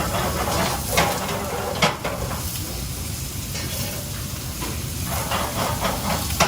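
Steady hiss of food cooking in a hot pan, with a few sharp clinks of a utensil against the pan.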